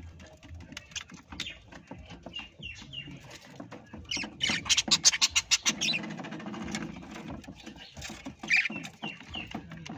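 Parrot calls: short high chirps among scratching and clicking, with a loud run of fast, rapid calls about four to six seconds in.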